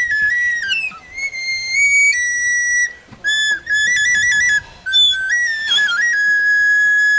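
Small short flute playing a simple melody in high, clear held notes that step up and down, with short breaks for breath. It ends on one long held note.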